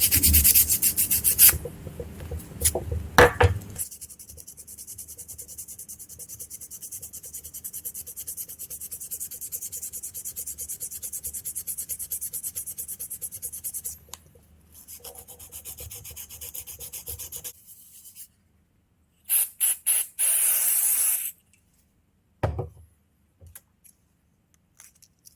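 400-grit sandpaper rubbed rapidly back and forth over the rusty parts of a Honda VFR800 ignition switch: loud strokes at first, then lighter, quicker ones. Near the end there is a short loud burst of scratchy noise, then a single knock.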